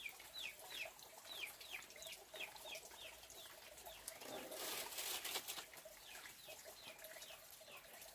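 A bird giving a quick series of short falling chirps, about three or four a second, with a brief burst of noise about four and a half seconds in before the chirping starts again.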